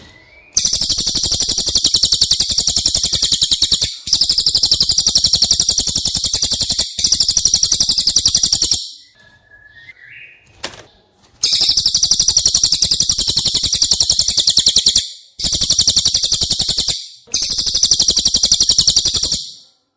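Cililin bird song: long, very fast, high-pitched trills of rapidly repeated notes in runs of a few seconds each. There are six runs, with a pause of about two seconds near the middle.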